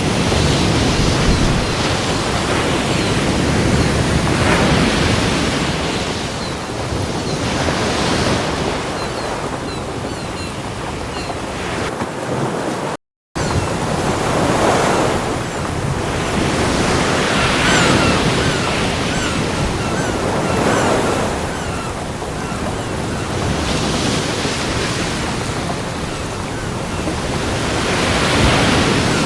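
Ocean waves breaking on a beach in a continuous wash of surf, swelling and ebbing every few seconds. The sound cuts out completely for a split second about 13 seconds in.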